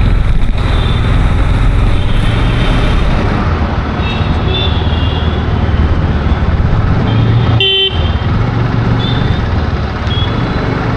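Busy road traffic: vehicle engines running steadily under a constant rumble of road noise, with several short horn toots, the clearest a little before the eight-second mark.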